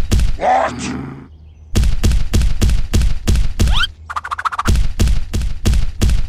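Steady run of heavy thumps, about four a second, broken near the middle by a brief fast rattle. A short grunting voice comes near the start, and a quick rising whistle-like glide comes just before the rattle.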